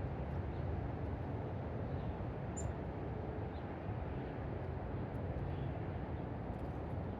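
A few faint, short bird chirps over a steady low rumble, with one sharper high chirp about two and a half seconds in.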